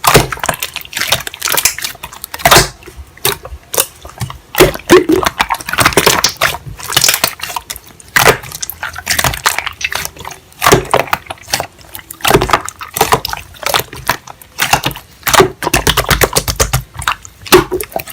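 Irregular crunching, crackling and clicking sounds in quick, uneven succession.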